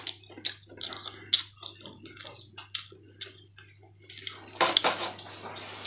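Close-up wet chewing and lip-smacking on a mouthful of cooked meat, a run of short irregular clicks, with a knife cutting meat on a wooden board; a denser burst of louder smacks and clicks about four and a half seconds in.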